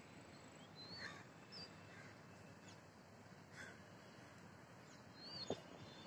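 Faint outdoor bird calls: a few brief, wavy high chirps and some lower short calls scattered through, with one sharper sound about five and a half seconds in.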